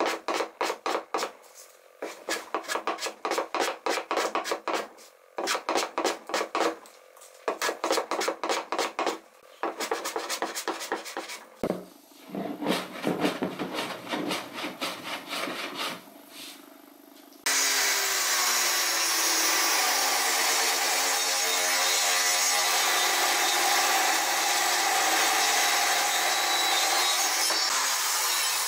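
Pine boards worked by hand in quick, regular back-and-forth strokes, in bursts with short pauses. About two-thirds of the way in, a power tool starts abruptly and runs with a loud, steady noise.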